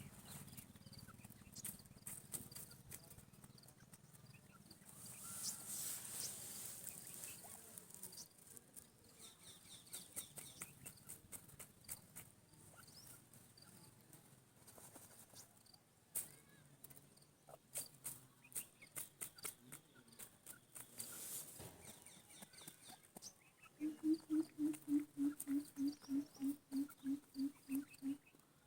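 Francolin (teetar) sounds amid scattered clicks and taps, with a faint high repeated call about a third of the way in. Near the end comes the loudest part: a rapid, even run of about sixteen low pulses, roughly four a second.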